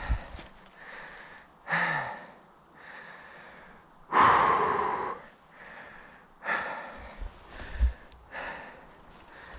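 A person breathing heavily, out of breath from exertion, with four loud breaths about two seconds apart; the strongest comes about four seconds in.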